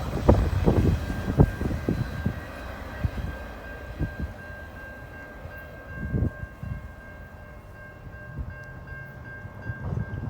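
Fast CN intermodal train rolling past at speed, its cars rumbling, with gusts buffeting the microphone; the rumble eases off somewhat after about four seconds. A steady high ringing tone runs beneath it.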